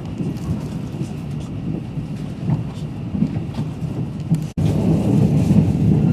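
Train running at speed, heard from inside the carriage as a steady low rumble. It cuts out for an instant about four and a half seconds in and comes back louder.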